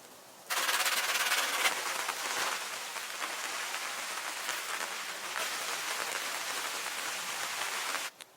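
Steady rain falling, a dense hiss of drops, starting suddenly about half a second in and cutting off abruptly near the end.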